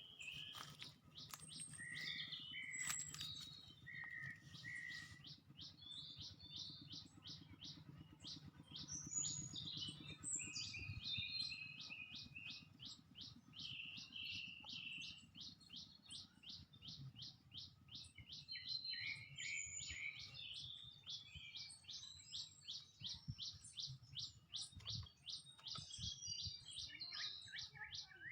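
Several small songbirds chirping and twittering together, a steady run of short, high chirps at about four a second with other calls overlapping.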